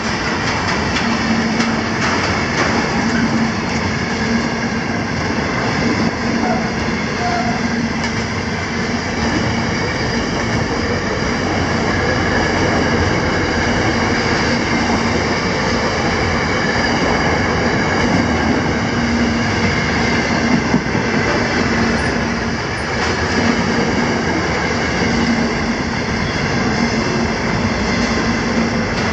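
Container freight train wagons rolling past at close range: steel wheels running on the rails, a steady loud noise with a faint held whine from the wheels.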